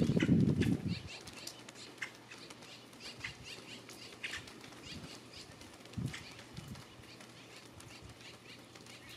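Birds chirping in short, scattered calls. A louder low rustle fills the first second.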